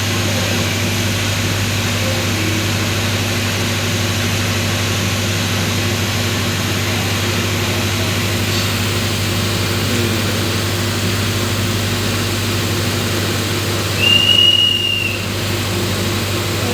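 Steady drone of construction machinery engines running. About 14 seconds in, a brief high-pitched tone sounds for about a second.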